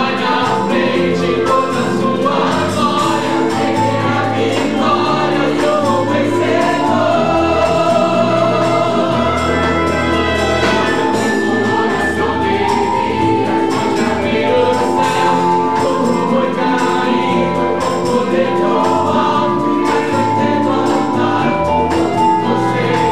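Choir singing a gospel hymn over instrumental accompaniment with a steady beat.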